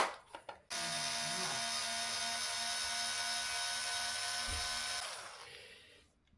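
Cordless electric screwdriver spinning for about four seconds with a steady high whine, then winding down, while backing out screws to take off the broken parts; a sharp click just before it starts.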